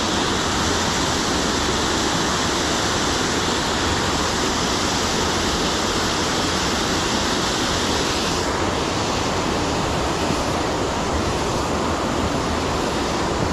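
Steady rushing of falling water from a waterfall and rapids; the higher hiss eases a little about two-thirds of the way through.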